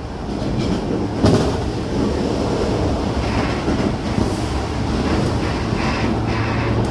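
Running noise heard inside a Toei 10-300 later-batch train car: a steady rumble of wheels on rail and traction motor hum. A sharp knock comes about a second in, and the low motor hum grows stronger near the end.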